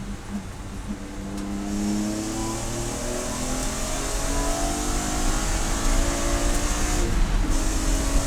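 Race car engine accelerating hard, its pitch climbing steadily, then dipping briefly about seven seconds in as it shifts up a gear before climbing again.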